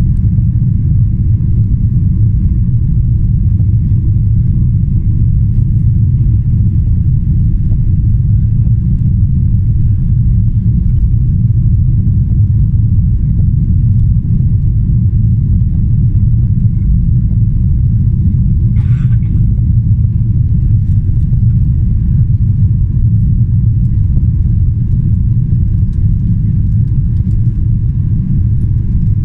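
Steady low rumble inside the cabin of a Boeing 777-300ER, from its General Electric GE90 engines and airflow, with a faint steady whine above it.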